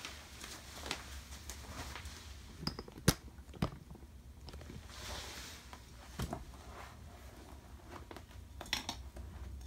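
Quiet room with a steady low hum and a few scattered light taps and rustles, the sharpest about three seconds in.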